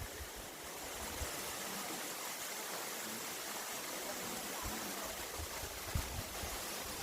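Small waterfall with a gentle flow, an even rush of falling and splashing water. A few brief low thumps, the strongest about six seconds in.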